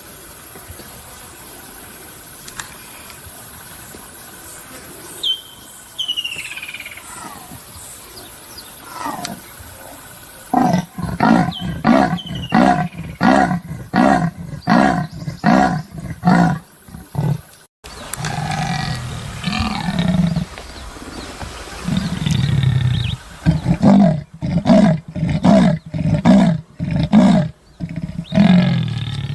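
Leopard giving its sawing call: a run of deep grunts at about two a second, broken off partway and then resumed with another series near the end.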